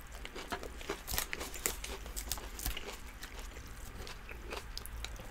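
Close-miked eating sounds: irregular soft crunches, wet mouth clicks and chewing as doner kebab meat, fries and crunchy vegetables are eaten.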